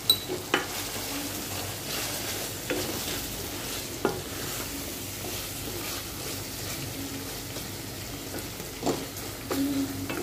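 Spicy beef liver curry sizzling in a metal pot as a wooden spatula stirs it. The oil has separated and the liver is being stir-fried down, and the spatula knocks and scrapes against the pot a few times.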